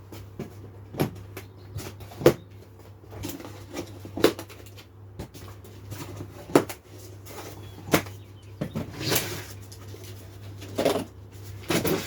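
A large cardboard shipping box being opened by hand: irregular knocks and scrapes of cardboard, with a longer rasp about nine seconds in.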